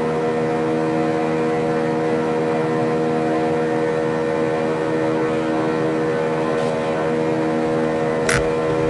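Rotors of a model Mars helicopter spinning at a constant speed, a steady pitched drone with no change in speed. A brief high chirp sounds near the end.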